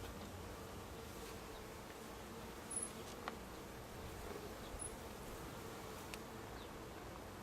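Honey bees buzzing around an open hive, a steady hum, with a few faint clicks near the middle as the hive is worked.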